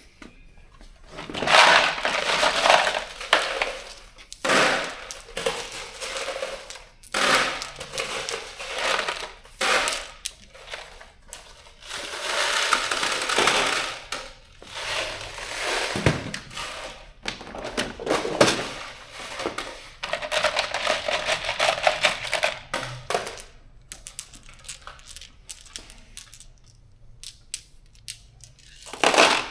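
Loose metal bolts and nuts clinking and rattling as they are handled and dropped into a bolt kit, in repeated bursts of a second or two with short pauses between.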